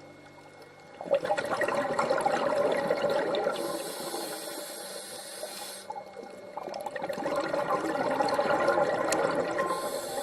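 Water bubbling and gurgling, a dense rush of bubbles that starts suddenly about a second in and goes on with its loudness swelling and easing.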